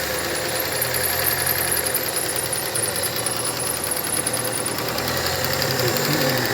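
Fiat Uno's engine idling steadily, freshly started with its rebuilt starter motor.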